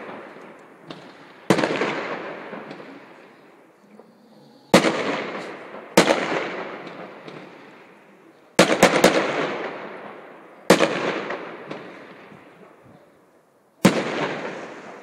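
Aerial fireworks bursting in the sky: about six sharp bangs, one of them a quick triple crack past the middle. Each bang is followed by a long echoing rumble that slowly dies away.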